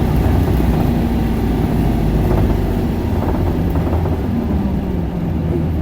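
Isuzu Erga 2KG-LV290N2 city bus heard from inside the cabin: its four-cylinder diesel engine and drivetrain run with a steady low drone, the pitch shifting slightly.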